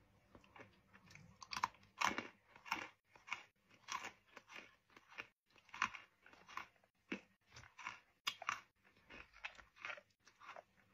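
A person biting and chewing crisp, brown-sugar-glazed fried dough twists (mahua): a steady run of separate, sharp crunches, the loudest about two seconds in and again just after eight seconds.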